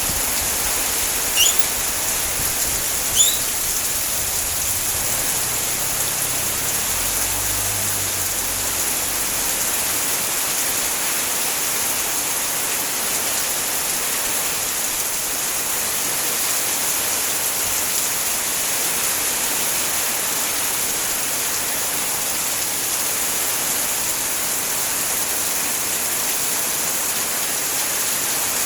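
Heavy rain falling steadily, an even hiss that does not let up. Two short rising chirps cut through it in the first few seconds.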